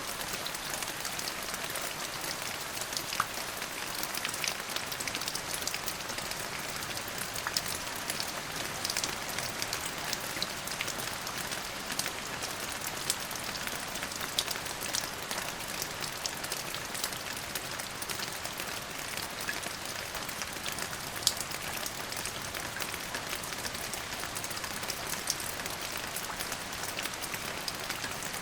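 Steady rain falling on a surface, a constant hiss with many small drop ticks and occasional louder single drops.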